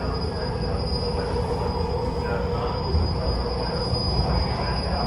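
MARTA rapid-transit rail car running between stations, heard from inside: a steady low rumble with constant high-pitched tones over it.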